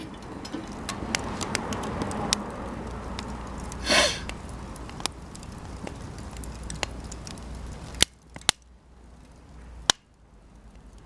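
Cedar offcuts burning in a campfire, crackling with scattered sharp pops. A louder brief burst about four seconds in, and the fire's steady hiss drops away after about eight seconds, leaving a few loud snaps.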